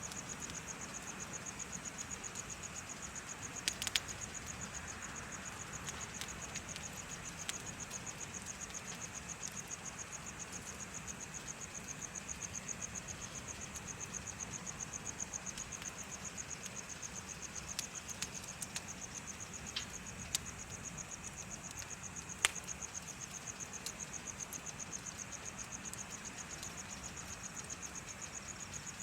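Insects chirping in a fast, even pulsing trill that never lets up, over a bonfire crackling with a few sharp pops, the loudest about three-quarters of the way through.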